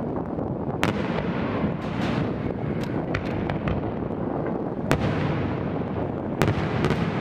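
Fireworks display: aerial shells bursting with sharp bangs about a second in, near five seconds and again after six seconds, with smaller cracks and pops in between over a steady rumble.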